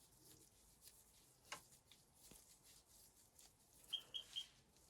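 Near silence, with faint small clicks and one sharper click about a second and a half in, then three short high chirps in quick succession near the end.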